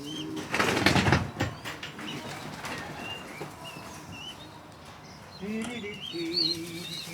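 Young racing pigeons in a loft: a brief burst of wing flapping about a second in, then high squeaking calls from the young birds and wavering calls near the end.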